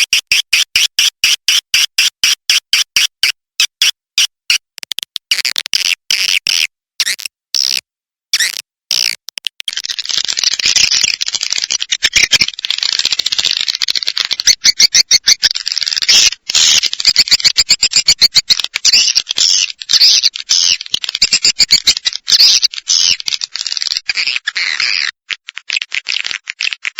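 Swiftlet calling sound for luring edible-nest swiftlets: for the first nine seconds or so, rapid rows of short high chirps, then a dense, unbroken high twittering chatter of many swiftlets.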